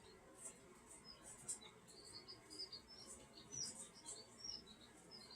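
Faint birdsong: many short, high chirps from small birds, some rising and some falling in pitch, coming close after one another.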